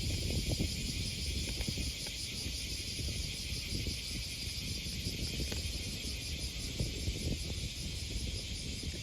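Steady, even chirring of insects, with a fluttering low rumble underneath, like wind on the microphone.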